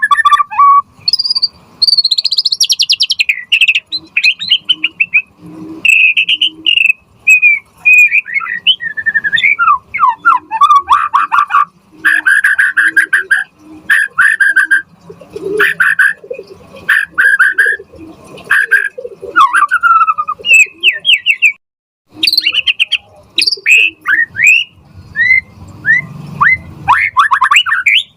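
White-rumped shama (murai batu) in full song: a rich, varied run of loud whistles, quick trills and rapid strings of sharp repeated notes, delivered in short phrases with brief pauses between them.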